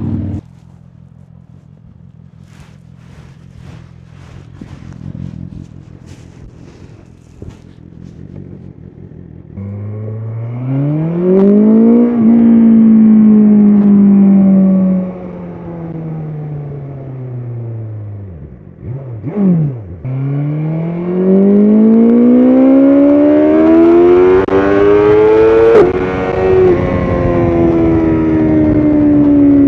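BMW S1000RR inline-four engine under way. It runs low and quiet with a few clicks at first. About ten seconds in it accelerates hard, the revs rising, holding and then falling off as the bike slows. Around twenty seconds the revs dip sharply and climb again to their highest near the end, then ease back slightly.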